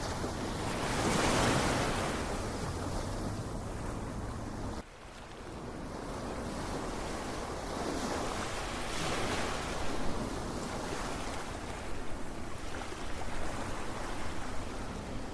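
Ocean surf: waves breaking and washing in, swelling and ebbing. The sound drops suddenly about five seconds in, then builds again into another breaking wave.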